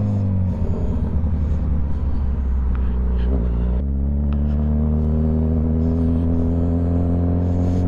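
Motorcycle engine running at low speed with an uneven rumble, then about four seconds in settling into a steady pull, its pitch climbing slowly as the bike accelerates.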